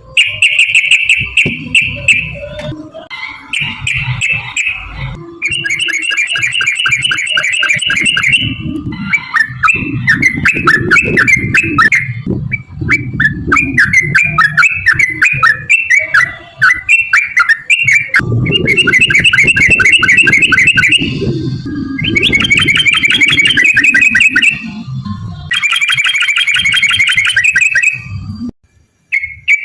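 Yellow-vented bulbul (trucukan) singing its loud, long, rapid rolling trill ('ropel') in bouts of a few seconds each, with short breaks between them. A lure song meant to provoke other trucukan into singing. A low rumbling noise runs under much of the song.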